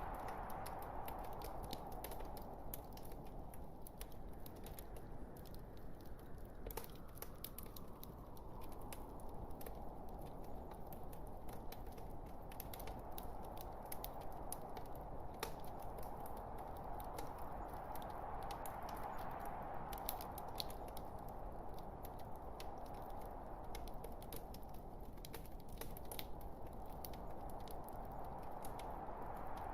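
Wood log fire burning in a fireplace, crackling with many small sharp pops over a steady soft rushing that swells and fades.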